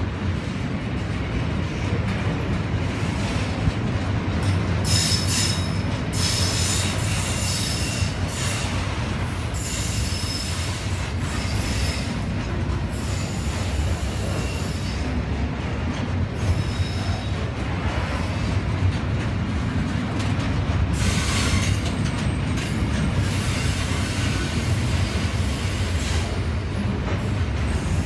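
Loaded steel-coil wagons of a long freight train rolling past: a steady rumble of wheels on rail, with thin, high wheel squeals coming and going.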